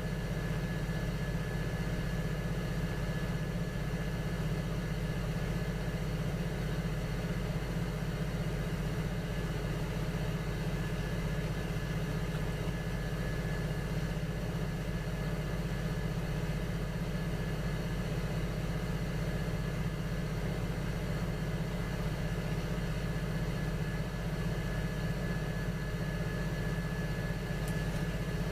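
Electric potter's wheel motor running at a steady speed, a constant hum with a few steady tones over it.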